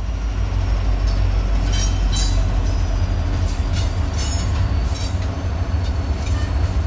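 Freight train rolling by: a loud, steady deep rumble with wheel-on-rail noise and short high-pitched squeals every second or so.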